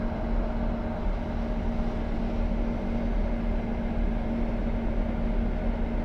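Passenger train running at steady speed across a steel truss bridge, heard inside the carriage: an even rumble with a constant low hum.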